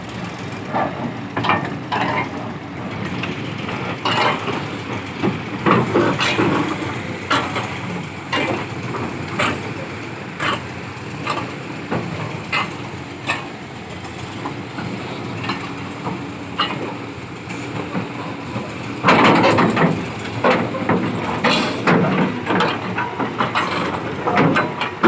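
Heavy diesel engine of a Nissan D308-S piling rig running steadily, with repeated irregular metal clanks and knocks as the rig is shifted on a lorry, and a louder clattering burst about three quarters of the way through.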